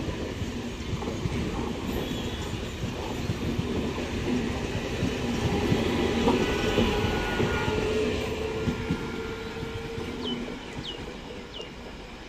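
MEMU local train coaches rolling past, wheels clattering over the rail joints with a faint steady squeal. The sound fades after about eight seconds as the last coach goes by. Three short, high, falling chirps near the end.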